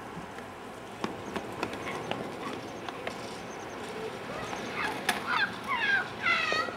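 A bird calling: a quick series of about five loud cries, each falling in pitch, starting past the middle, with scattered light taps before them.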